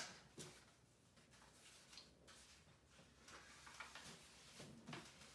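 Faint rustling and creasing of paper being folded by hand, a few soft crinkles and taps spread through otherwise near silence.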